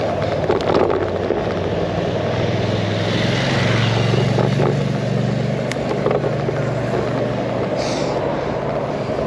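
Wind and road noise on a handlebar-mounted action camera while cycling in traffic, with a motor vehicle's engine passing close by, swelling in the middle and fading.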